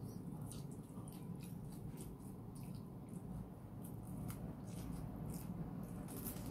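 Close-up eating of a breaded fried snack: many short crunches and wet mouth clicks in irregular quick succession as it is bitten and chewed, over a steady low hum.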